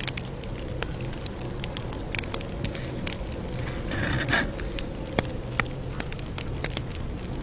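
Campfire crackling: irregular sharp pops and snaps over a steady low rumble of burning, with a short hiss about four seconds in.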